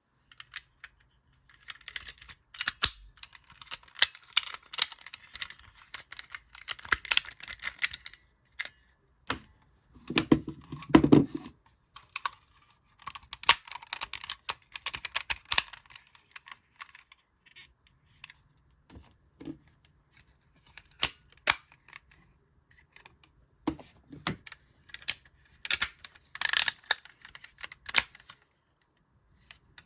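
Hard plastic parts of a DX Zyuohger combining robot toy being handled and clicked together, giving clusters of rapid small clicks and clatter. About ten seconds in there is a louder, lower rattle lasting a second or two.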